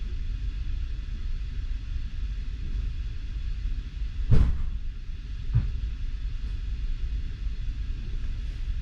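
Low, steady rumble of a passenger train carriage moving off slowly, heard from inside the carriage. A sharp knock comes about four seconds in and a weaker one just over a second later.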